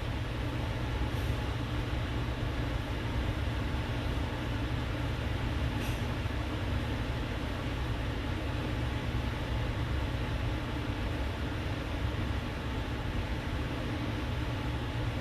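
Steady low rumble with an even hiss over it: constant background room noise, without any changes.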